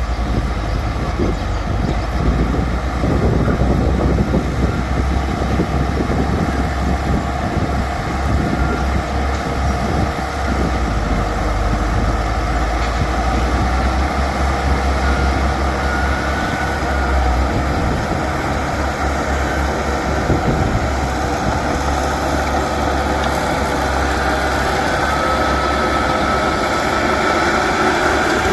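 Bulldozer's diesel engine running steadily with a deep rumble, while the machine works. A higher whine rises slightly near the end.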